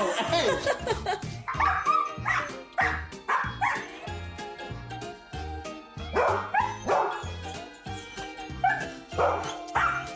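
A dog barking in short bursts, several times, over background music with a steady beat.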